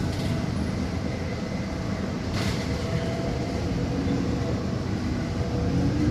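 Steady running rumble inside a moving city bus, with a faint even hum over it.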